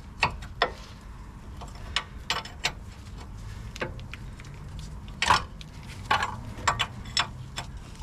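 Irregular metal clinks and taps of a spanner working a suspension bolt, with one louder clank about five seconds in and a few quick clicks after it.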